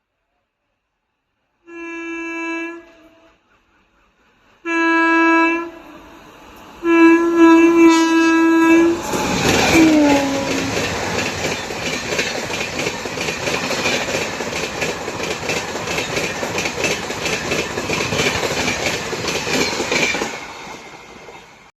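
An Indian Railways express train's locomotive horn sounds three blasts, the third longest, its pitch dropping as the locomotive passes. Then the train rushes by at speed, wheels clattering rapidly over the rail joints, until the clatter fades away near the end.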